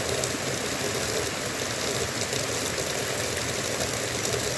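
Heavy rain falling steadily in a downpour, with drops ticking close to the microphone.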